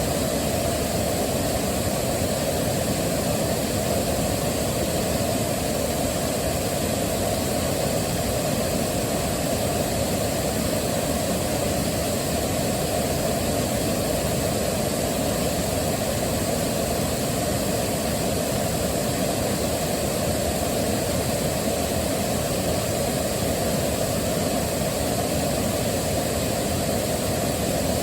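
Waterfall rushing in a steady, unbroken roar of falling water, deepest in the low end.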